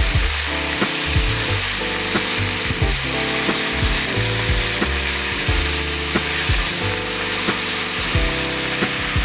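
Food frying in a pan, an even sizzling hiss, under background music with a steady beat.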